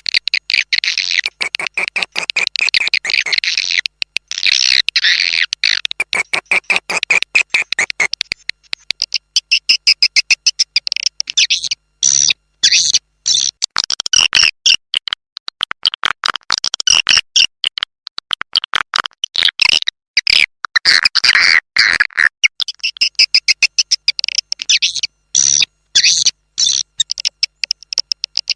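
Swiftlet lure call recording of the kind played in swiftlet farming to draw swiftlets into a nesting house: dense, high-pitched twittering chatter and rapid clicks, in bursts with short breaks.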